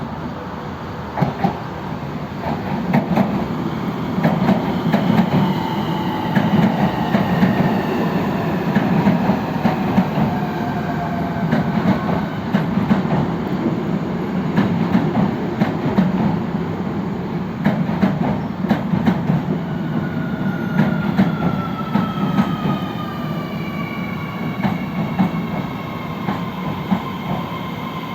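Osaka Metro 30000-series subway train pulling into a station: wheels clacking over rail joints under a heavy rumble, with the traction motors' whine falling steadily in pitch as it brakes. A second falling whine rises above the rumble in the last third.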